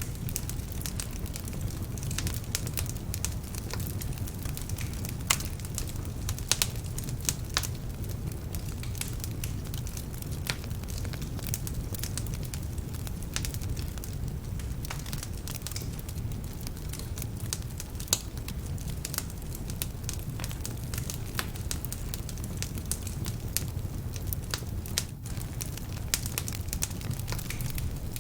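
Wood fire burning in a fireplace: a steady low rumble of flames with frequent irregular crackles and sharp pops from the logs, some of them damp.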